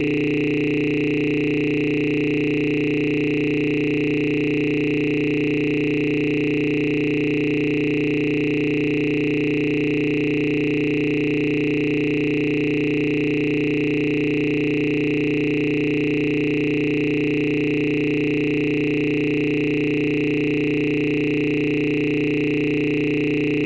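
A steady electronic drone of several unchanging pitched tones, low and high together, holding at one level throughout without a break.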